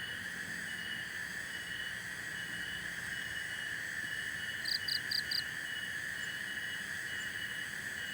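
Chorus of insects or frogs: a steady high buzzing drone with a short chirp repeating about once or twice a second. About two-thirds of the way through, an animal calls four quick high notes.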